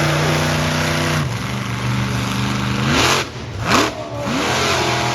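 Methanol-fuelled monster truck engine running hard on the run-up, easing off about a second in and then revving up, followed by two loud impacts around three and four seconds in as the truck comes down on the row of cars, then more revving.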